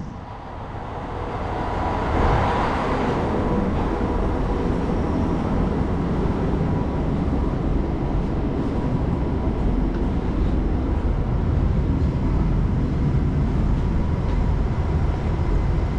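Diesel railcar on the non-electrified Moka Railway, running on the rails with a steady low rumble that builds over the first two seconds, then holds level.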